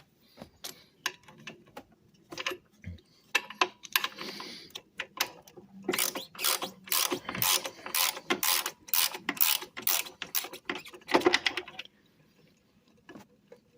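Socket ratchet clicking as a bolt is worked loose: scattered clicks at first, then a fast run of clicks for several seconds that stops near the end.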